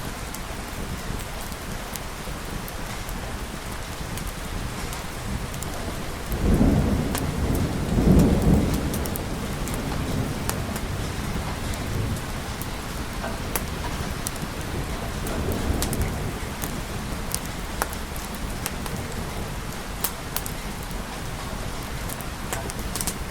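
Steady rain with scattered sharp drips. Rolling thunder swells about six seconds in, peaks about two seconds later, then rumbles again more softly near the sixteen-second mark.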